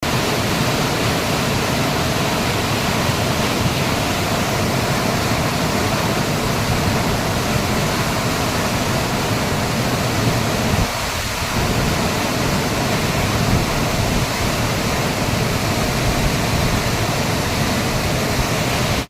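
Floodwater rushing in a loud, steady wash, as from a dam spillway or a swollen river in spate.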